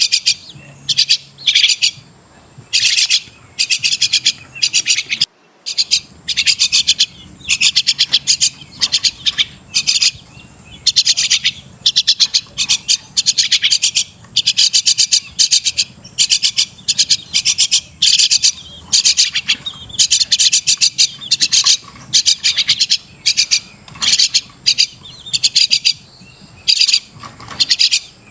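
Crested myna calling: harsh, rapid chattering phrases, high in pitch, repeated in short bursts one after another with brief gaps between them.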